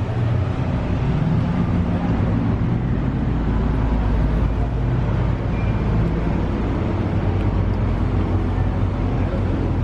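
Supercar engines running at low revs as two cars pull away, a steady deep engine note without big revs.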